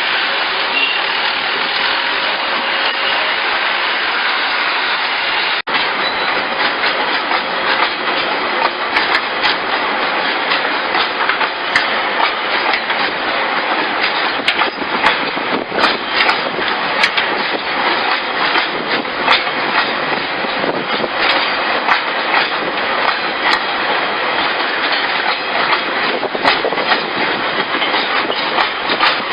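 Metre-gauge train rolling along its track, a steady rumble with wheels clicking and clacking over the rails, the clicks coming more often after about eight seconds. A brief break about six seconds in.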